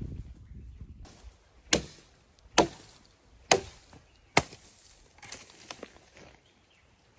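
Wood being chopped: four sharp, evenly spaced strokes about a second apart, followed by a few lighter knocks.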